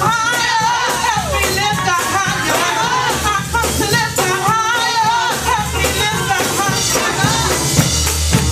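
Live up-tempo gospel praise music: voices singing over a band with bass and drums, with steady percussive hits throughout.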